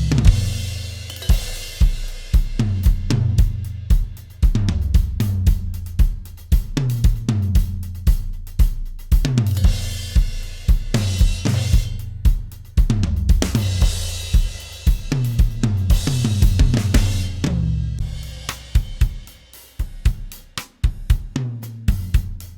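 Acoustic drum kit playing a steady groove: kick drum, snare and hi-hat hits, with a few cymbal crashes ringing out. About eighteen seconds in, a long low note rings on and the playing thins out to sparser, quieter hits.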